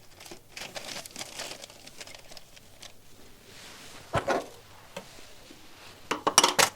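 Paper pattern sheets rustling as they are handled on a table, with scattered light clicks. There is a sharper knock about four seconds in and a quick cluster of knocks near the end.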